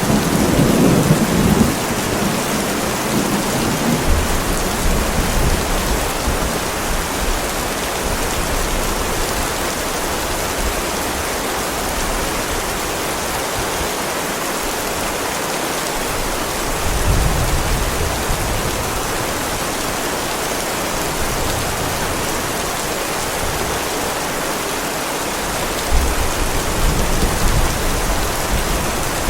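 Heavy rain pouring steadily onto a driveway, with low rolls of thunder rumbling at the start, again about two thirds through, and near the end.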